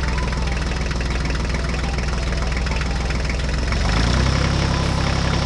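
Engine of a two-wheel walking tractor running in a steady, rapid chug. About four seconds in, its note shifts lower and slightly louder as the tractor drives in.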